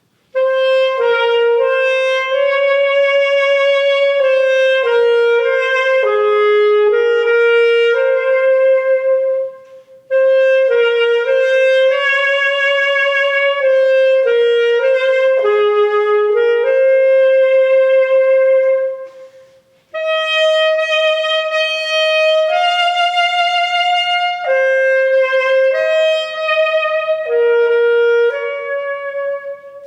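Solo wind instrument playing a slow, unaccompanied melody line in three phrases of about ten seconds each, with short breaks about nine and nineteen seconds in.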